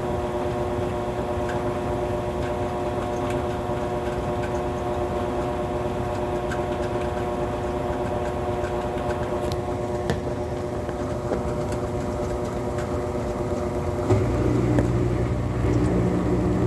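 Whirlpool washing machine spinning a heavy load of towels at speed, its motor giving a steady whine. About fourteen seconds in, a deeper hum comes in and the sound grows louder.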